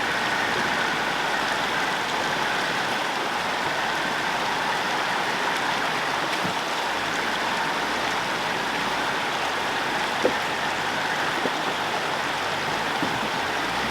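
A river rushing steadily over boulders, a constant even wash of water noise, with a couple of faint knocks near the end.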